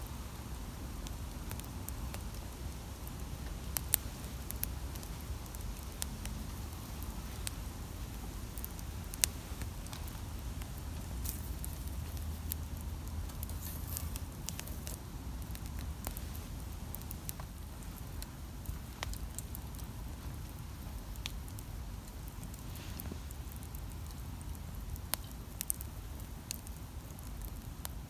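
Wood campfire crackling, with scattered sharp pops and ticks over a low steady rumble; a few louder pops stand out near 4, 5 and 9 seconds in.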